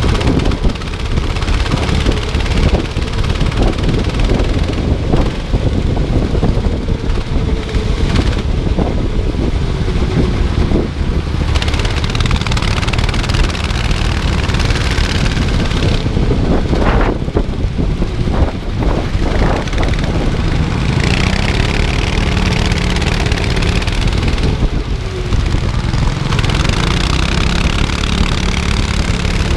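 Go-kart engine running hard, its pitch rising and falling as the kart speeds up and slows for corners, over a heavy low rumble.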